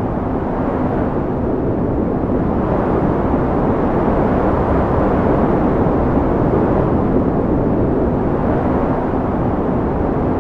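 Strong wind blowing: a steady, loud rush of noise that swells and eases a little a few times.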